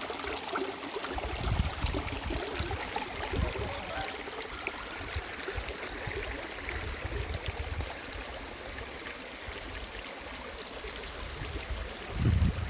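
Stream water running steadily, with irregular low rumbling bumps underneath, the strongest near the end.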